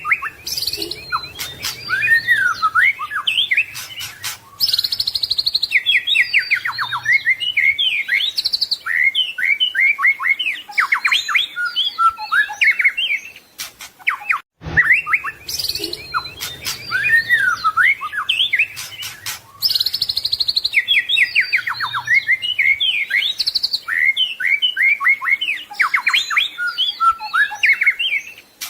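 White-rumped shama (murai batu) singing a fast, varied song of clear whistles, rapid trills and harsher notes, with short pauses between phrases. The same stretch of song repeats about halfway through, as in a looped recording.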